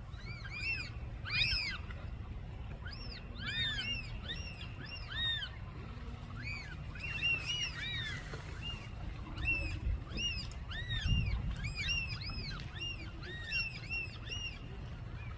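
Black oystercatchers calling noisily: a stream of shrill, repeated piping whistles from several birds at once, overlapping throughout, over a low background rumble.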